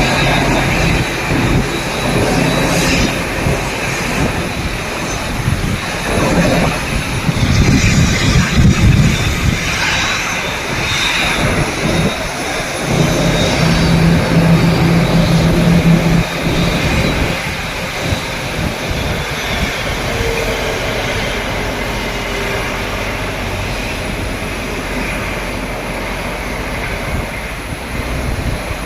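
Boeing 787-8 airliner's jet engines running at low power as it taxis into its parking spot, a steady engine noise that is louder for a stretch in the middle and then eases off.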